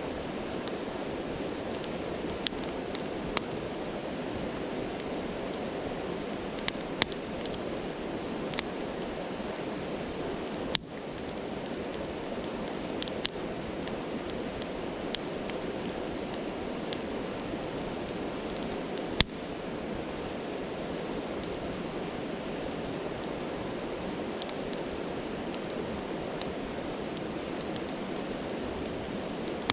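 Campfire crackling, with scattered sharp pops, over the steady rush of a stream. Two louder snaps stand out, about 11 and 19 seconds in.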